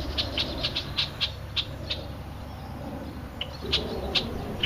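Birds giving short, sharp calls in quick runs, several a second, pausing about halfway and then calling again near the end: agitated scolding, which the man eating their mulberries takes for the birds being unhappy with him.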